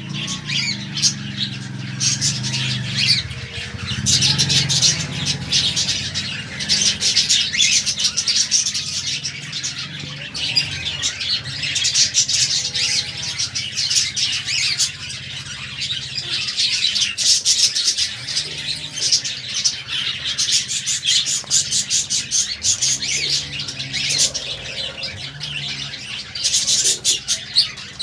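Budgerigars chattering and warbling nonstop, a dense stream of rapid high chirps and squawks. A low hum runs underneath, loudest in the first few seconds.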